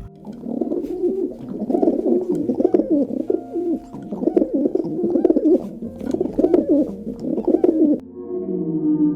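Birds calling, a dense low warbling from several birds at once that stops about eight seconds in, when music starts.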